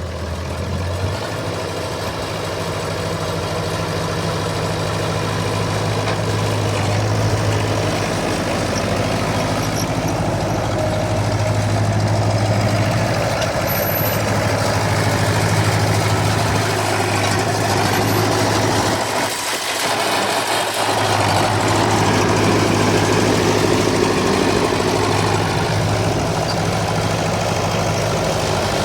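Massey Ferguson 35 tractor engine running steadily at idle, dipping briefly about two-thirds of the way through before carrying on at the same pace.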